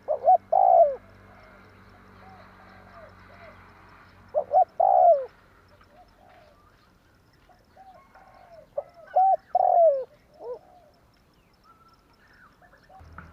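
Spotted dove cooing: three loud phrases about four to five seconds apart, each a few short coos ending in a longer drawn-out note, with softer coos between them.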